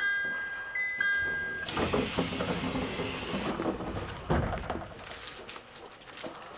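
Two-note electronic chime inside an E127 series electric train, high then low, sounding twice. It is followed by a rush of air with mechanical rattling and a heavy thud about four seconds in, typical of the doors closing.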